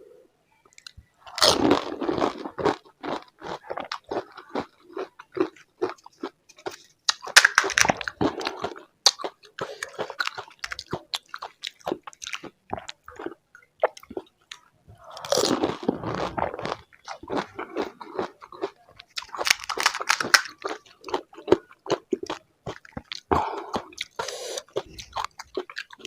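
Crisp pani puri shells, filled with spicy water and potato, crunching as they are bitten, with wet chewing between bites. There are about five bursts of crunching.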